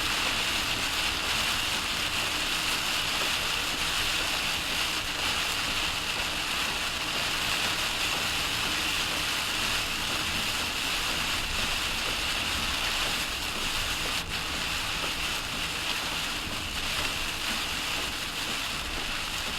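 Heavy rain falling: a steady, dense hiss of rain and water noise, with a faint low hum underneath that fades out about sixteen seconds in.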